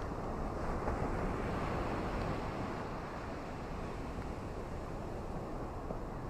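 Ocean waves washing on a beach: a steady rushing that swells about a second in, then eases.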